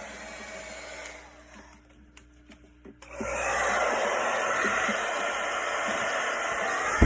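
Heat gun blowing hot air, cut off about a second in and switched back on about three seconds in, running louder and steadily after that. A few small clicks fall in the quiet gap, and a low thump comes right at the end.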